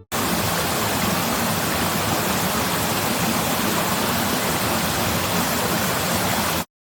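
A steady rushing noise, like running water or wind, that starts abruptly and cuts off sharply near the end.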